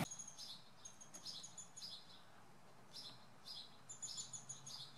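Faint birdsong: several short runs of quick, high chirping notes with pauses between them.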